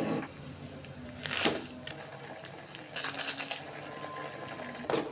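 Kitchen handling noises during cooking: three short bursts of clattering and rattling, the middle one a quick run of clicks.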